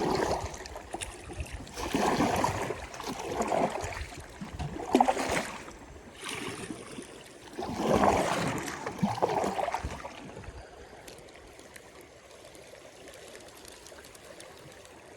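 River water running past a kayak, with several louder sloshing bursts in the first ten seconds, then a steadier, quieter rush of water.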